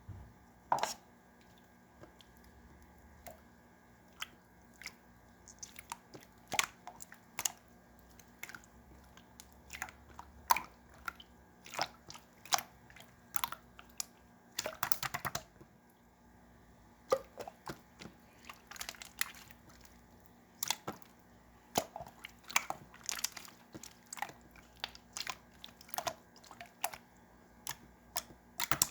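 Clear slime being squeezed and pressed by hand, making irregular sharp wet pops and clicks as air pockets burst, with a quick run of pops about fifteen seconds in.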